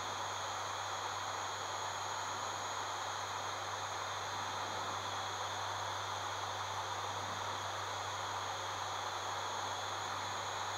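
Steady cockpit noise of an ATR 72-600 turboprop with its engines running: a constant low propeller hum under an even hiss, with a couple of faint high whines, unchanging throughout.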